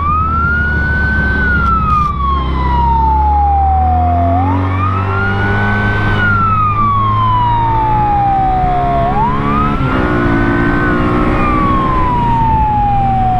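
Police motorcycle siren on a Honda ST1300PA, wailing: the tone sweeps quickly up, then falls slowly, in about three cycles. The bike's V4 engine runs underneath, its pitch climbing twice as it accelerates.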